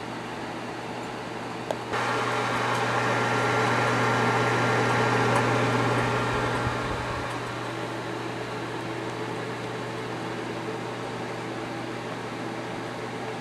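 1971 Radarange microwave oven running: a steady electrical hum with fan noise. A click about two seconds in, then the running noise steps up louder and eases back down about four seconds later.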